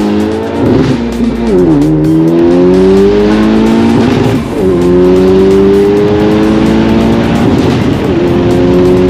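Honda Civic Type R's turbocharged four-cylinder, with catless downpipe and aftermarket exhaust, accelerating at full throttle, heard from inside the cabin. The engine note climbs through each gear and drops sharply at three quick upshifts: just under two seconds in, about halfway, and near the end.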